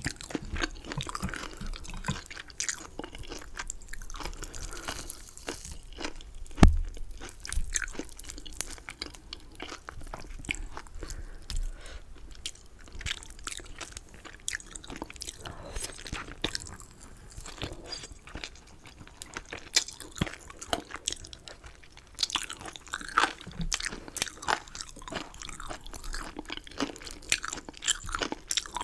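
Close-miked crunchy chewing and biting of chicken, many small irregular crunches and clicks, with one sharp thump about six and a half seconds in.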